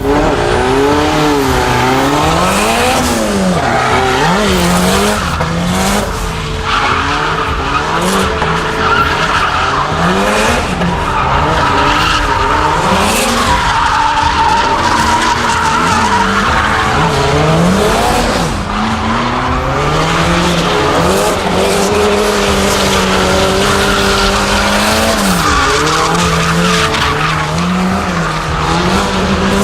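Nissan 200SX S13's SR20VET turbocharged four-cylinder engine revving up and down repeatedly while the car drifts, with tyres squealing and skidding.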